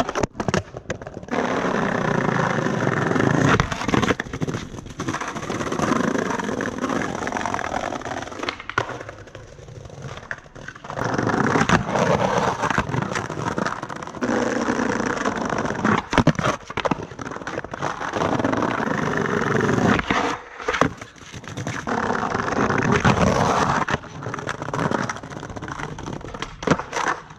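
Skateboard wheels rolling over rough ground in long runs of several seconds, broken by sharp clacks and cracks of the board.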